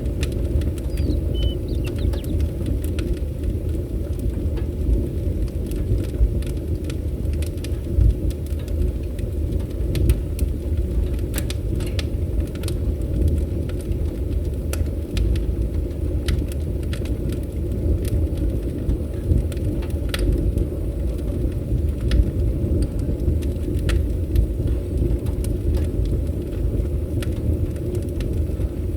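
Wood fire crackling, with scattered sharp pops and snaps over a steady low rumble, and a brief bird chirp about a second in.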